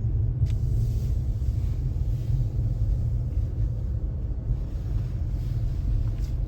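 Steady low rumble of a car's engine and tyres heard from inside the cabin as it is driven, with a single short click about half a second in.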